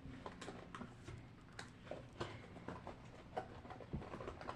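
Faint, irregular clicks and taps of small fidget toys being handled and sorted by hand, over a low steady hum.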